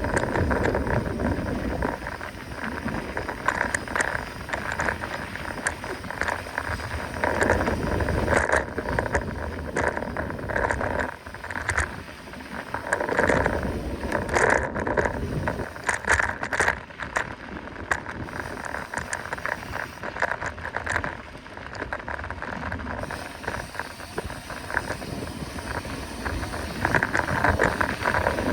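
Mountain bike riding fast downhill on a dirt trail: tyres rolling over rough ground, with the chain and frame rattling and clattering over bumps.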